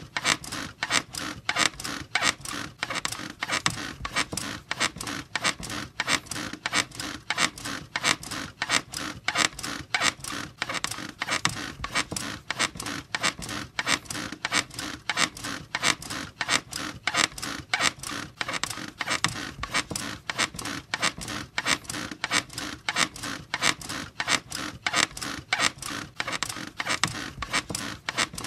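A bed squeaking over and over in a steady, even rhythm, each squeak short and sharp.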